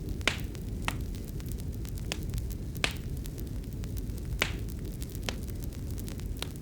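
Wood fire crackling: sharp, irregular pops and snaps about once a second over a low, steady rumble.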